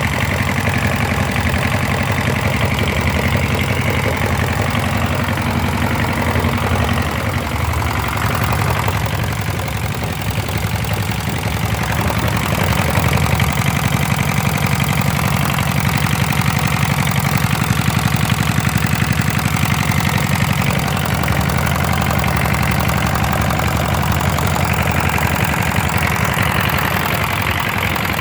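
Hatz diesel engine running steadily, getting slightly louder about twelve seconds in.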